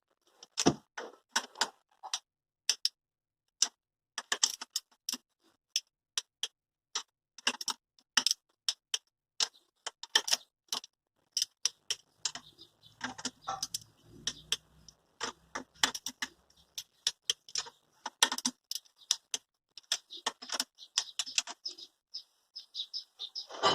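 Irregular sharp metallic clicks and taps from hand work on an engine, sometimes in quick clusters, with no engine running.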